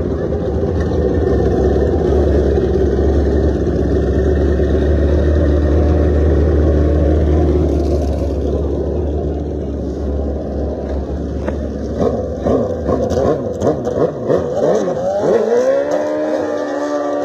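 Drag-racing motorcycle engines: loud rumble for the first ten seconds or so, then repeated throttle blips from about twelve seconds in, ending with one engine rising to steady high revs and held there.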